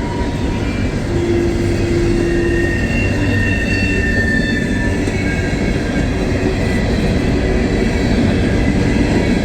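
Empty coal hopper cars rolling past on the rails in a steady rumble, with thin high-pitched wheel squeals coming and going in the first half.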